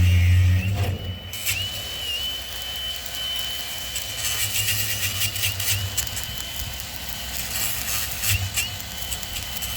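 Stick-welding arc crackling steadily, with a thin high whine and a low hum under it. It is louder for about the first second, then settles.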